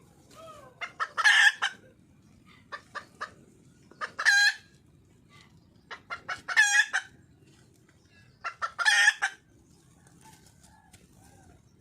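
Junglefowl hen calling for a mate: a few short clucks leading into a loud, harsh call, repeated four times about every two to three seconds.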